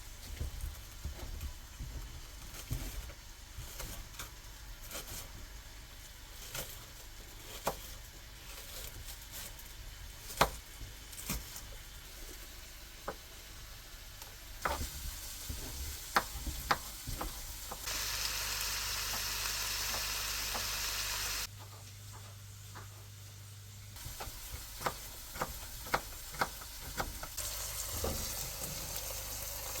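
Food sizzling in a frying pan, with scattered clicks and scrapes of a utensil stirring or turning it. The sizzle is louder and steadier for a few seconds a little past the middle.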